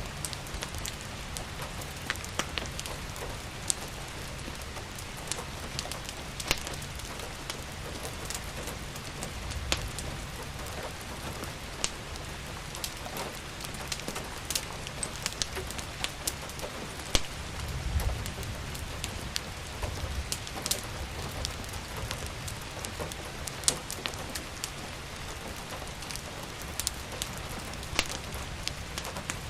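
Steady rain, with scattered sharp crackles and pops from a wood fire and a low rumble underneath.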